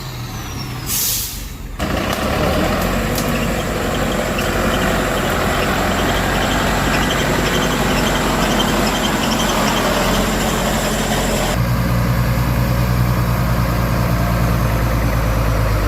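Heavy truck's diesel engine working, with a short hiss of air brakes about a second in. The engine runs loud and rough, then changes to a steadier, deeper engine note about twelve seconds in.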